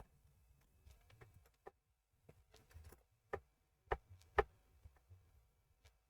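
Scattered light clicks and taps from small objects being handled on a workbench, the three loudest a little over half a second apart about three and a half to four and a half seconds in.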